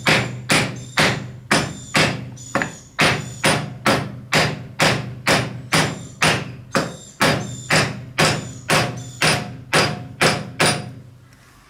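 Mallet blows driving a glued wooden piece onto nails and down to close a broken joint, a steady run of knocks at about two a second that stops near the end.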